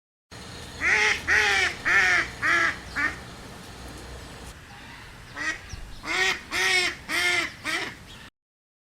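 A duck quacking: a quick run of five quacks, a pause of about two seconds, then another run of about six.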